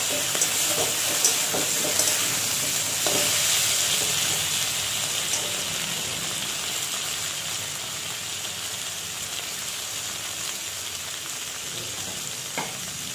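Potato and pointed gourd pieces frying in oil in a metal wok, a steady sizzle. A metal spatula stirs and clicks against the pan during the first few seconds, then the frying goes on alone, with a single tap near the end.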